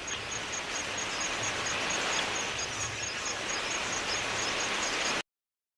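Outdoor bush ambience: a steady hiss with a fast, even train of short high chirps, about four or five a second. It cuts off suddenly about five seconds in.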